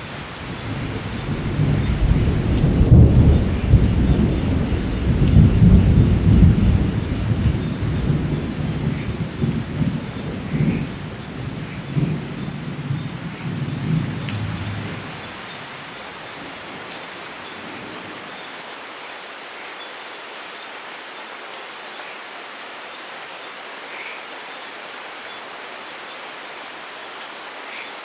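Steady rain with a long rolling thunder rumble that builds in the first couple of seconds, is loudest a few seconds in and dies away about halfway through, leaving the rain alone.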